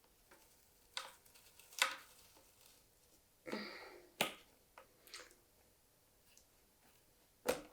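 Bars of freshly made soap being set into a cardboard shoebox to cure: a handful of light, scattered knocks and clicks with a short scrape, the loudest knock near the end.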